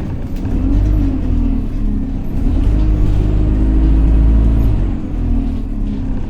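Single-deck diesel bus engine pulling under load, heard from inside the bus: a loud rumble whose pitch rises and falls, easing off about five seconds in.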